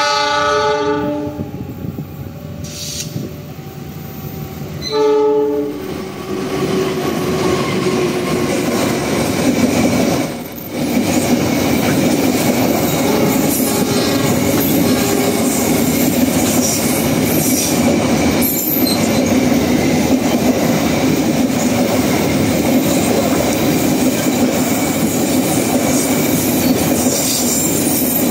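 A train horn sounds as a chord of steady tones at the start, then gives a second short blast about five seconds in. The train then passes with a loud steady rumble of rolling wheels, rail clatter and metallic wheel squeal.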